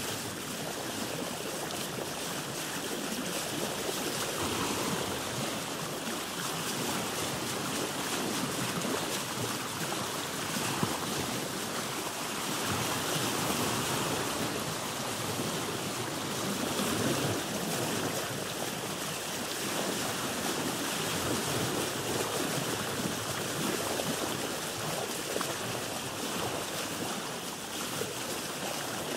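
Ocean waves and water washing around a boat: a steady wash that swells and eases every few seconds.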